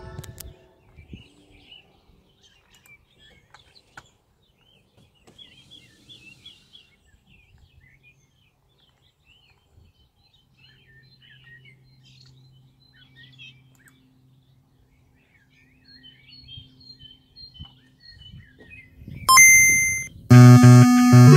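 Small birds chirping faintly, with a few light clicks, in a lull between tracks. About 19 seconds in a short burst of sound comes, and then loud music with pulsing bass notes starts through the Sony SS-D170 speaker.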